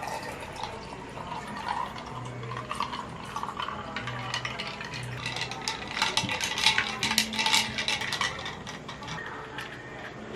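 Liquid splashing and pouring with quick small clinks, busiest about two-thirds of the way through, over soft background music.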